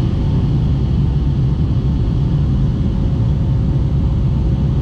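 Steady low rumble of a vehicle running, heard from inside, with a faint constant hum over it.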